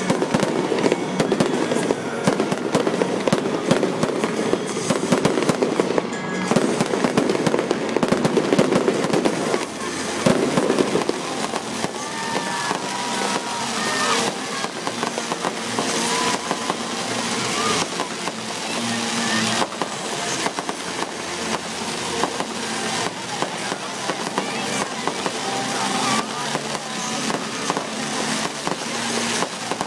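Aerial fireworks display: a dense, continuous barrage of bangs and crackling bursts.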